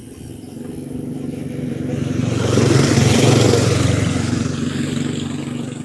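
A single motorcycle passing along the trail: its engine grows louder up to about three seconds in, then fades away.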